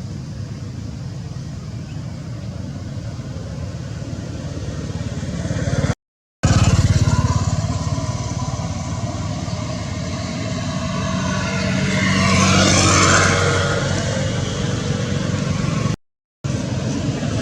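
Road traffic: motor vehicle engines running steadily, with one vehicle, likely a motorcycle, passing louder about twelve seconds in. The sound cuts out briefly twice.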